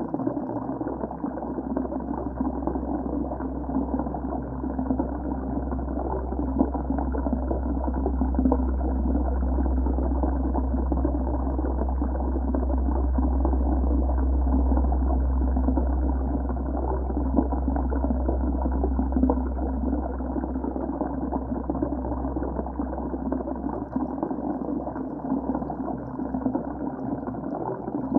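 Muffled rushing and gurgling of water heard underwater, a steady low rumble with everything above the low-mid range cut off. It swells slightly in the middle.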